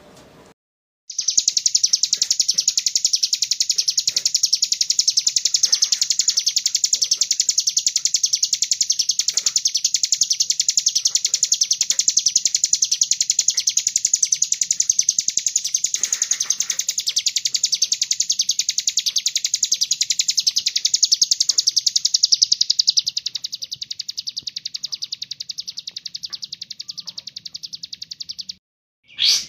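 Sunbird (kolibri ninja) singing one long, very rapid high-pitched trill of fast-repeated notes, without pause. It drops in volume over the last few seconds and cuts off abruptly just before the end.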